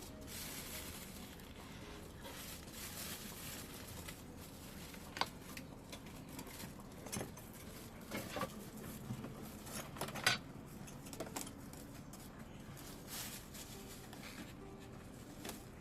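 Parts and packaging being handled during unboxing: steady rustling with scattered light clicks and knocks, the sharpest about ten seconds in.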